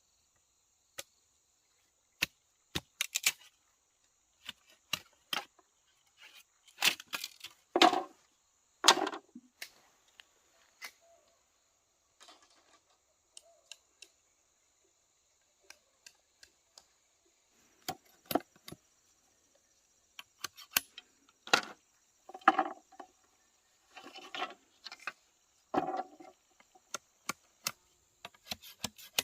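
Irregular knocks, taps and clatters of handling work, some sharp and light, some fuller and heavier, bunched into clusters about seven to nine seconds in and again through the last third.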